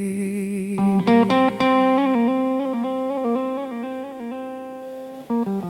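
Slow blues music. A held note gives way about a second in to a lick of single picked guitar notes, and a fresh run of sharp note attacks starts near the end.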